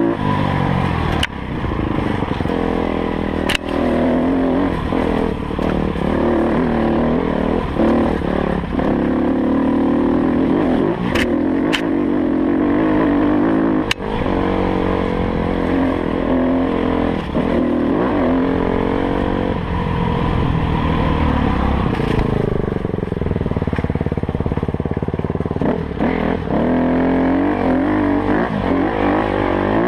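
Off-road enduro motorcycle engine heard close up from the bike, revving up and down as it rides a dirt trail, with a few sharp knocks along the way.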